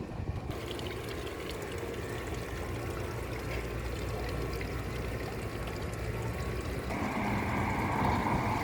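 Steady rush of running water, growing louder and brighter about seven seconds in.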